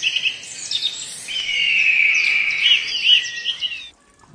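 Several birds chirping and whistling at once, a dense mix of quick trills and a long high whistle, cutting off suddenly near the end.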